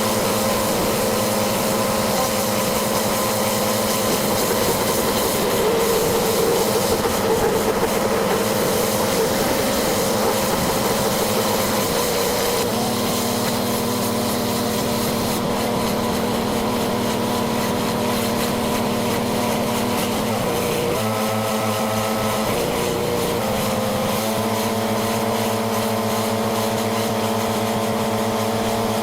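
Pressure washer engine running steadily under the hiss of the high-pressure water spray; the engine's note shifts briefly about three quarters of the way through.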